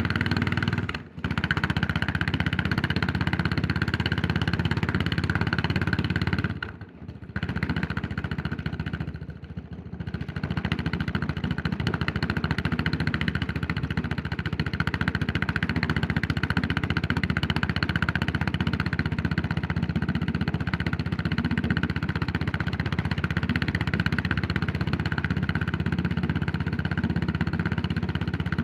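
Yamaha SR400's air-cooled single-cylinder four-stroke engine running steadily under way. The sound drops briefly about a second in, then again around seven and ten seconds.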